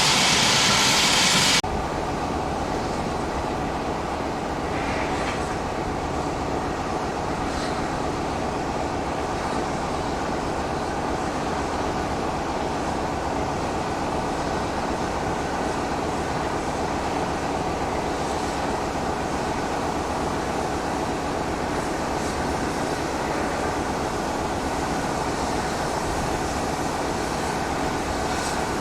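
A steam-hauled train on the line makes a steady, even rumble. A loud hiss cuts off abruptly about one and a half seconds in.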